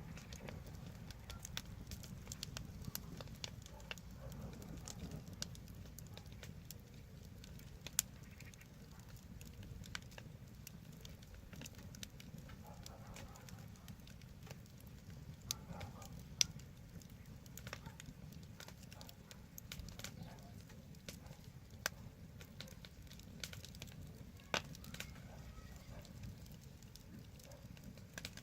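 Wood fire burning and crackling: scattered sharp pops and snaps, a few louder ones, over a steady low rumble of the flames.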